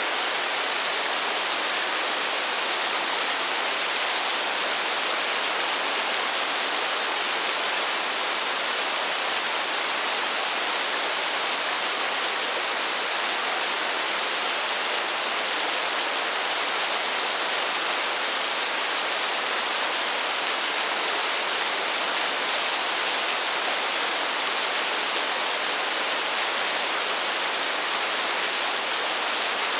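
Steady rainfall: an even, unchanging hiss with no single drops standing out.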